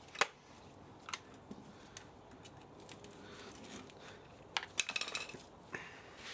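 Scattered sharp metallic knocks and clinks of hand tools and loose parts while an old spa motor is taken apart for scrap, irregularly spaced, with a quick cluster of strikes past the middle.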